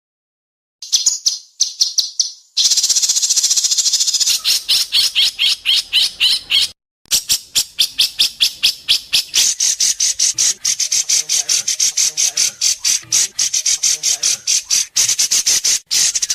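A songbird's sharp, rapid trill ('besetan'): long runs of fast, evenly spaced high chirps with short breaks. It starts about a second in, after silence.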